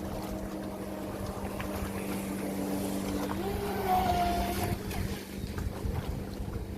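Volantex Vector Pro Angry Shark RC boat's brushless motor whining as the boat runs on the water, its pitch stepping up about three and a half seconds in and dropping back about a second later, with wind on the microphone.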